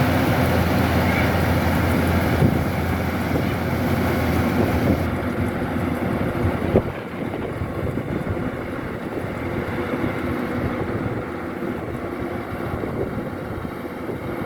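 Kubota DC-105X combine harvester running steadily, its engine and harvesting machinery working. There is a sharp knock about seven seconds in, and the sound is a little quieter and duller after it.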